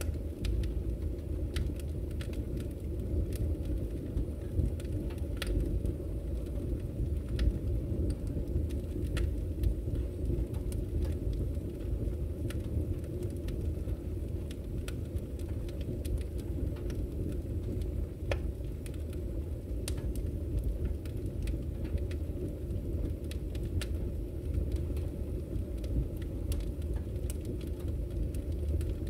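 Wood fire burning in a fireplace: a steady low rumble of the flames with irregular sharp crackles and pops scattered through.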